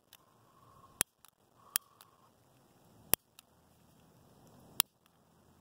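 A hand lighter clicked over and over, about four sharp clicks at uneven gaps, with a brief faint hiss after some of them. It is trying to light the fuse of a ground bloom flower firework.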